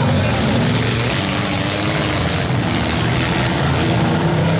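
Demolition derby car engines running loudly, revving up and down in a continuous drone.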